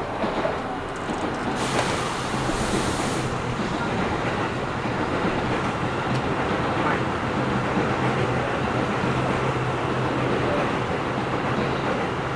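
Inside a Seibu New 2000 series commuter train car standing at a station: steady rushing noise with a low hum, and a brief hiss about two seconds in.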